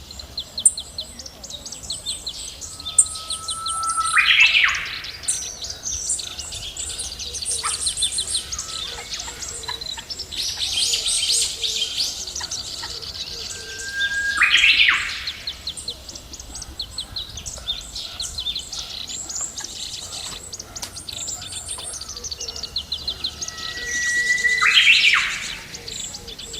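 Birds chirping and calling in a steady high chorus. Three times, about ten seconds apart, a louder call stands out: a held whistle that climbs in pitch and ends in a quick sweeping burst.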